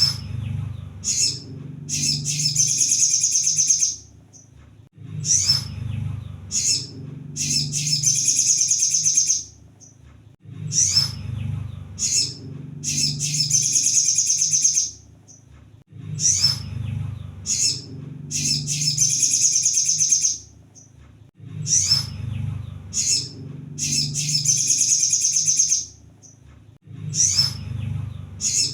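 Crimson sunbird song, looped: a few sharp high chirps, then a fast, high trill about two seconds long. The phrase repeats about every five and a half seconds, with a low hum underneath.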